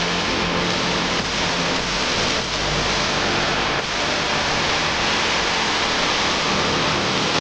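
A heavy truck's diesel engine running, buried under a steady loud rushing hiss. The sound cuts off abruptly at the end.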